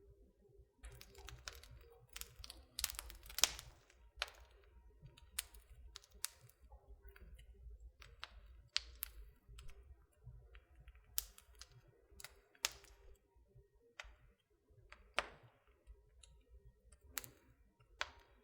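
Wood fire in a fireplace crackling: irregular sharp snaps and pops over a faint low rumble, busiest in the first few seconds and sparser after.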